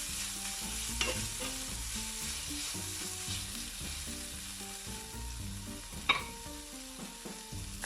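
Chopped chicken and onion frying in oil in a pan, a steady sizzle. A sharp clink about six seconds in, with a smaller one about a second in.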